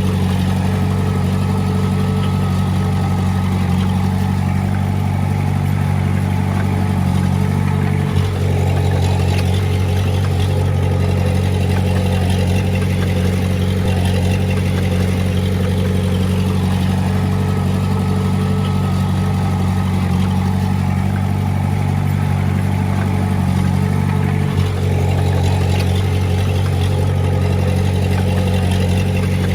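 Komatsu D20A bulldozer's diesel engine running steadily. A brief dip in the engine note, with a click, comes about 8 seconds in and again about 25 seconds in.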